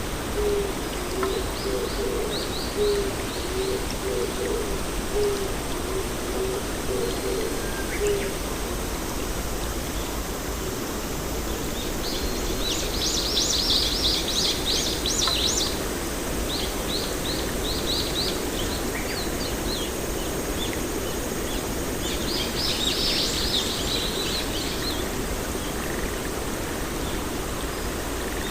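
Songbirds chirping in several short runs of rapid high notes, with a low call repeated in short notes through the first eight seconds or so, over a steady hiss of outdoor noise.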